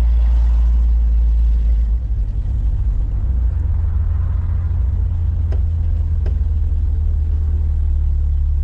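Vehicle's newly swapped engine running with a steady low rumble. About two seconds in, the rumble turns rougher and more uneven. Two faint ticks come later.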